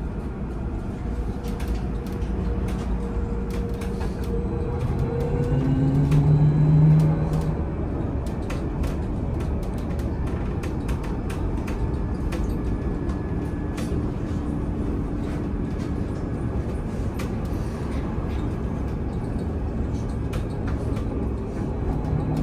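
Cabin of a VMZ Avangard trolleybus under way: a low rumble with scattered rattles and clicks, and the electric drive's whine rising in pitch as it speeds up, loudest about seven seconds in before easing off.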